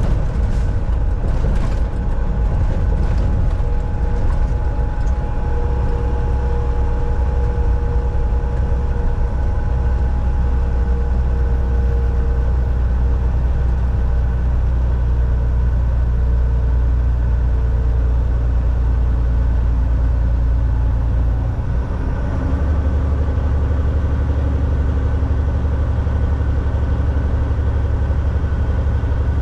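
Volvo VNL 760 semi truck heard from the driver's cab: a steady low engine drone over road and tyre noise. About two-thirds of the way through, the drone dips briefly and comes back a little higher.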